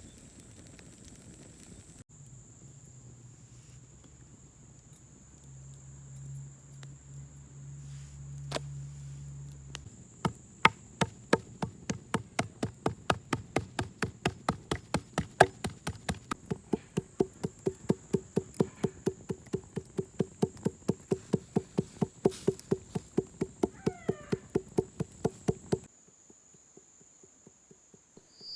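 Knife chopping rapidly on a wooden cutting board, an even run of knocks about four a second that starts about a third of the way in and stops shortly before the end.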